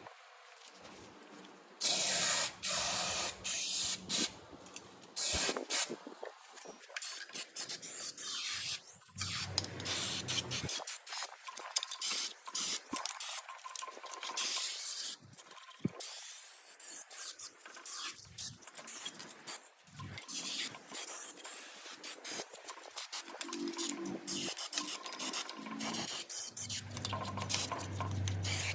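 Aerosol brake cleaner sprayed in a hissing blast about two seconds in, then a small brush scrubbing the engine surface in quick, irregular strokes to degrease it.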